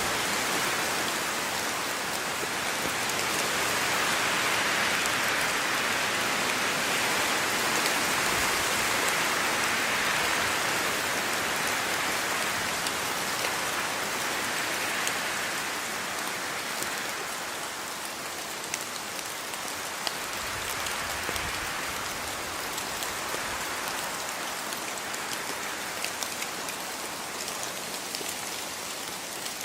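Steady rain falling, a dense even hiss that swells a little in the first half and then eases, with separate drops ticking more distinctly toward the end.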